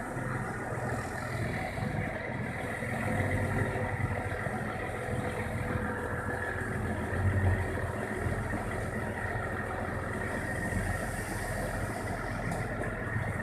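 Six-wheel dump truck's engine idling steadily, after its revs drop just before.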